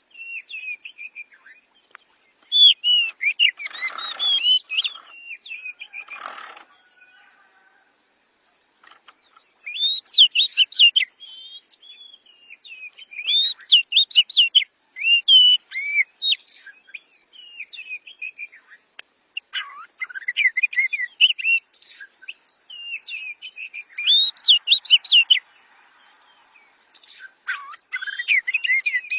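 Oriental magpie-robins singing in repeated bouts of quick, varied whistled notes with short pauses between phrases. A faint steady high-pitched tone runs underneath.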